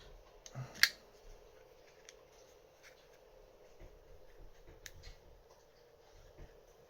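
Small metal clicks and light handling of a Lagard 2200 lock's internal parts as a component is worked back into alignment, with one sharp click about a second in and another near five seconds.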